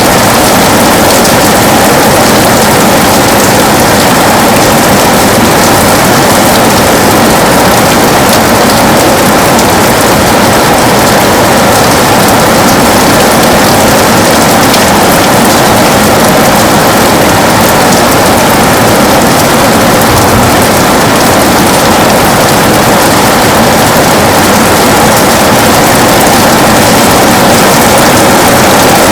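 Heavy rain falling steadily on a window: a dense, even hiss of drops spattering on the glass, with fine ticks of single drops through it.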